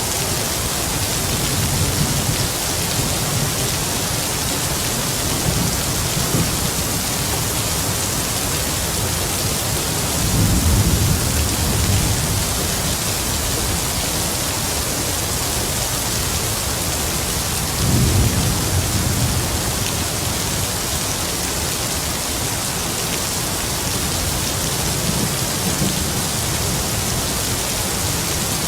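Heavy rain falling steadily, with distant thunder rumbling low underneath. The thunder swells twice: once about ten seconds in and again a little past the middle.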